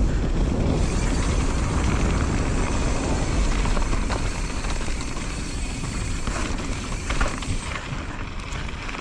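Wind rushing over the microphone and tyres rolling on a wet dirt trail as a mountain bike descends at speed, with light rattles from the bike. The rush eases off in the last few seconds as the bike slows.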